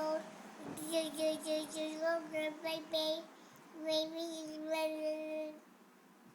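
A young child singing or chanting in a high voice: short phrases of held, fairly level notes that stop about five and a half seconds in.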